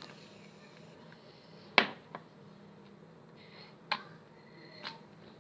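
Slime being squeezed and handled, giving a few sharp clicking pops, four in all; the first, about two seconds in, is the loudest.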